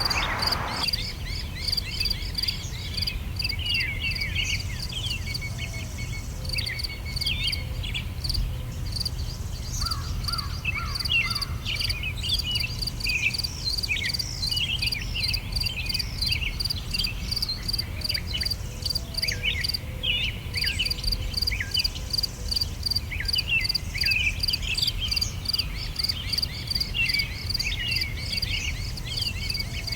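Several songbirds singing, with many short quick chirps and trills throughout, over a steady, regularly pulsing high chirp of crickets and a low steady rumble underneath.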